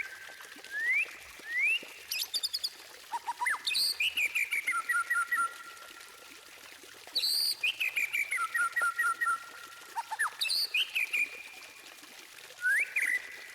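White-rumped shama singing: rising whistled notes, fast runs of repeated notes that step down in pitch, and very high, sharp chattering trills, delivered in phrases with short pauses between them.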